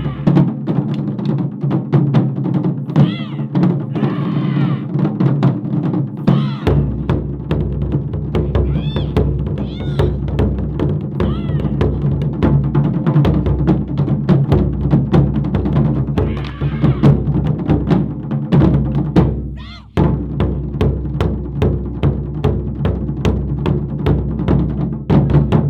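A Japanese taiko drum ensemble plays a fast, dense rhythm. At times high calls that rise and fall sound above the drums. Just before twenty seconds in, the drumming breaks off for a moment, then comes straight back.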